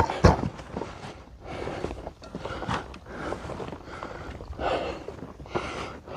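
A hiker walking uphill on a trail: irregular footsteps with breathing, coming as short noisy rustles every half second to a second.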